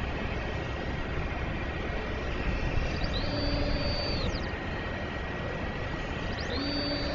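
Bombardier Global 6000's turbofan engines heard from a distance as a steady rumble and hiss with a thin, even whine. Two short high-pitched sounds come over it, about three seconds in and again near the end.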